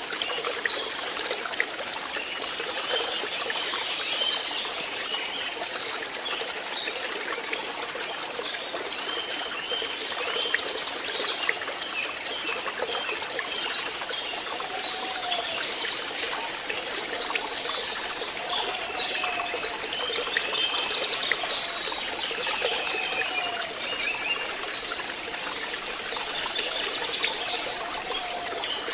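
Water trickling and splashing into a fish pond, a steady continuous babble.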